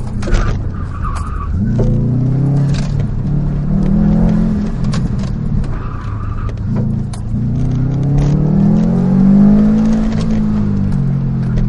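Subaru WRX STI's turbocharged flat-four engine heard from inside the cabin as the car is driven hard, revving up and easing off again and again, with its longest climb near the end before it drops away. The tyres squeal briefly twice, and there are scattered knocks and rattles.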